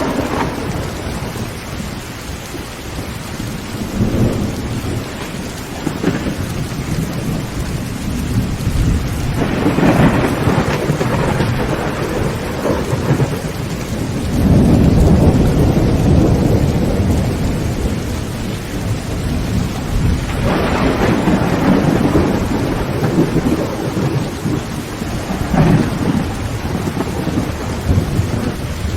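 Heavy rain falling steadily on a tin tent roof, with thunder rumbling and rolling several times; the longest, loudest peal comes about halfway through.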